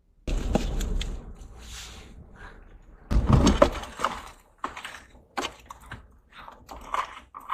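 Hard scraping and clattering among rocks and shells, with sharp clicks: a crevice is being poked and prodded to get a hiding crab out. The two loudest stretches come about a quarter second in and about three seconds in.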